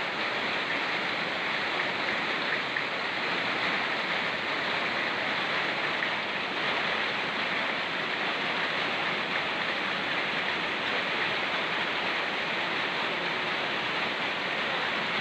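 Fast-flowing mountain river rushing steadily, mixed with falling rain: an even, unbroken hiss.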